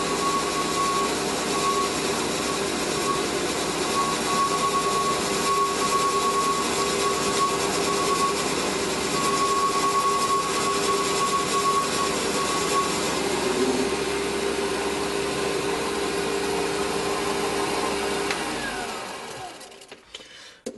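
Small metal lathe running steadily while taking a cut, then switched off and spinning down near the end.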